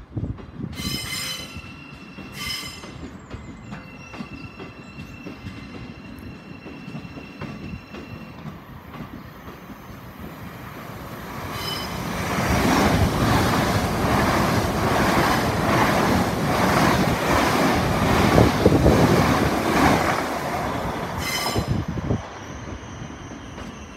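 LNER Azuma train running through the platform: a loud rush of wheel and rail noise with a rapid clatter, rising about halfway in and lasting about ten seconds. Before it, quieter train noise with two short high-pitched sounds near the start and a faint steady high whine.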